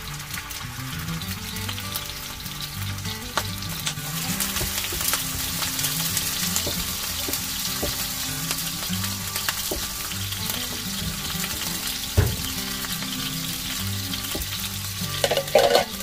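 Salmon frying in hot oil in a pan: a steady sizzle that grows louder about four seconds in, with a few knocks, a heavier thump around twelve seconds in and a louder clatter near the end.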